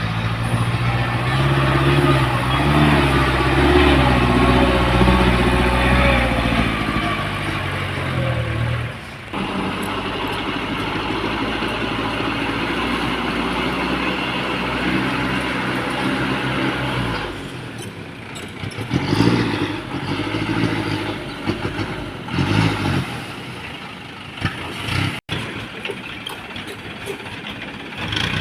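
Small dump truck's engine running raised for the unloading. It is loud and wavering in pitch for the first nine seconds, drops suddenly, and then runs steadily before turning quieter and uneven with intermittent louder bursts over the last ten seconds.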